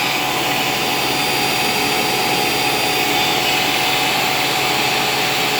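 Shop Fox 13-inch thickness planer running steadily, its motor and cutterhead giving an even whine and rush.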